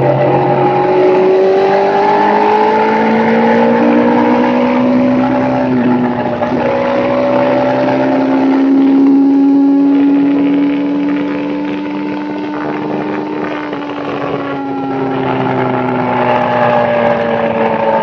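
A small bike's motor running under way, its pitch rising over the first few seconds, holding, then easing down and climbing again near the end as the speed changes.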